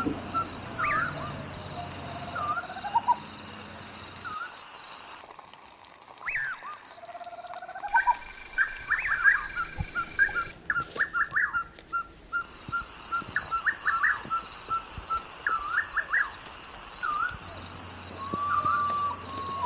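Birds calling and chirping at the riverside, many short sweeping calls and a run of evenly repeated notes, over a steady high-pitched drone that cuts out twice for a few seconds.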